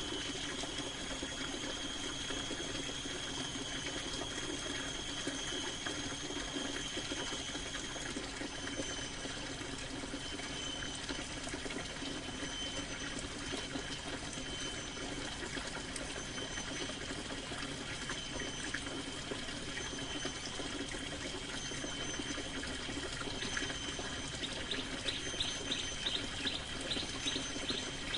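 Steady rain falling on a canvas tent, an even hiss with a thin high tone running through it. Near the end, a quick run of short high chirps rises over the rain.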